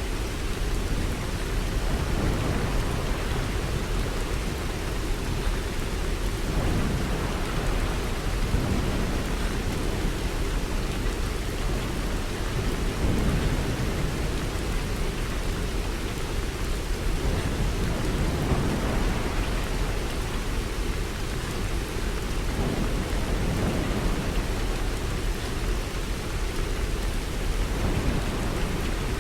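Steady rain falling, with low rumbles of distant thunder swelling and fading several times.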